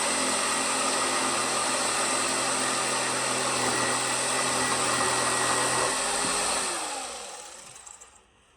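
Oscillating multi-tool with a sanding attachment running steadily on wood, then switched off about six and a half seconds in, its motor winding down in pitch and fading out.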